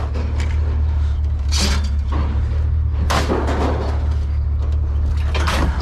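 Scrap items being thrown onto a pile, three loud crashing clatters about a second and a half apart, over a steady low hum.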